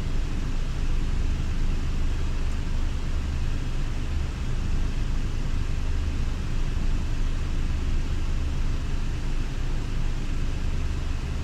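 Diesel engine of a Scania Irizar i6S coach running steadily at low speed with a deep even hum while it is driven in reverse.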